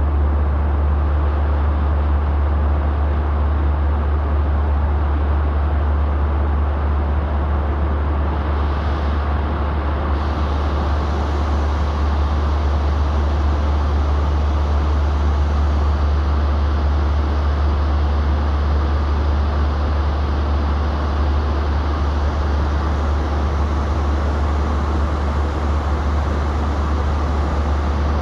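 Steady cabin noise of an airliner in flight: an even drone of engines and rushing air with a strong low rumble, unchanging throughout.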